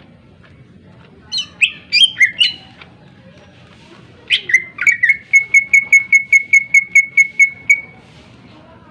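Greater green leafbird (cucak ijo) singing: a few loud, sharp whistled phrases, then about four seconds in a quick run of identical short notes, about five a second, for some three seconds.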